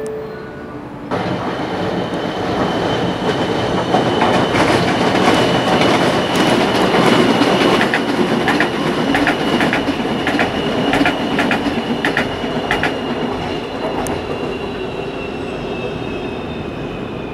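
An LRT light-rail train passing on the tracks below. It swells up about a second in, with a high steady whine and a run of sharp clicks in the middle, then fades as it moves away, the whine dropping slightly in pitch near the end.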